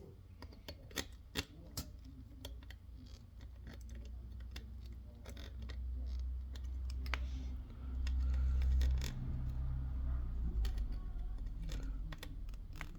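Small clicks and taps of tools and parts being handled on a repair bench, scattered through the first half, with a low rumble building up in the middle and then easing off.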